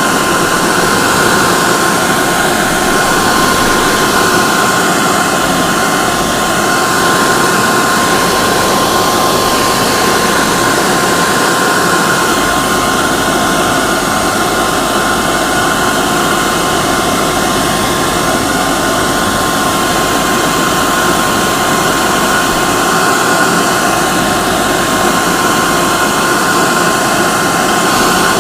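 Hair dryer running steadily: a loud rushing blow of air with a constant motor whine.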